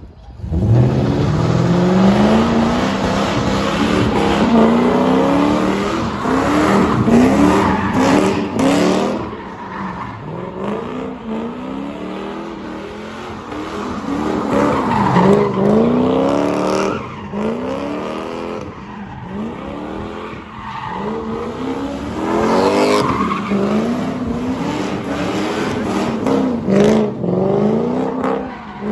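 Lexus GS400's 4.0-litre V8, with no catalytic converters and a straight-pipe single exhaust, revving hard again and again, its pitch rising and falling, with tyres squealing as the welded differential locks both rear wheels together.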